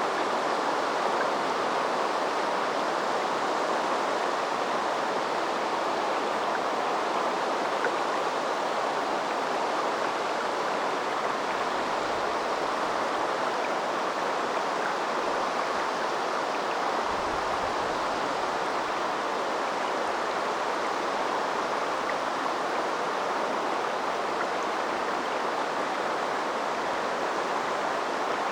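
River water flowing, a steady rushing of the current with no let-up.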